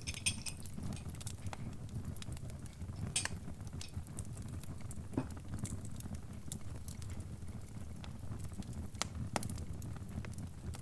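Fire crackling: a steady low rumble of burning with sharp pops and snaps at irregular moments, a handful louder than the rest.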